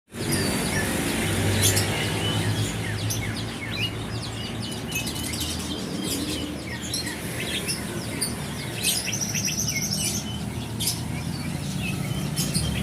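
Several songbirds chirping and calling over one another in many short, quick notes, with a longer, high trill at about nine seconds in, over a steady low hum.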